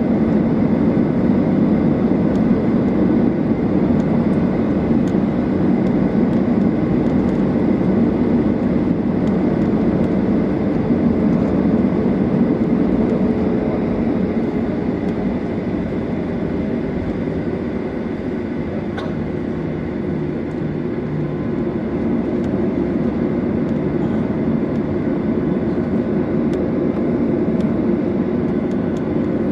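Boeing 737-800's CFM56-7B jet engines at high thrust, heard inside the cabin during takeoff: a loud, steady rush of noise with a tone that slowly falls in pitch. There is a brief click about 19 seconds in.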